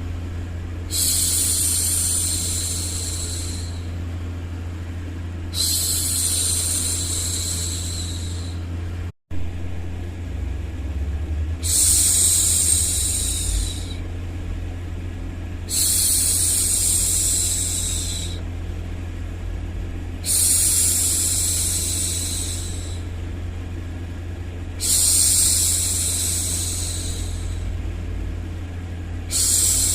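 A woman's voice making long 'shhh' hushing sounds, each two to three seconds long, repeated about every four to five seconds over a steady low hum of background noise. The sound drops out to silence for an instant about nine seconds in.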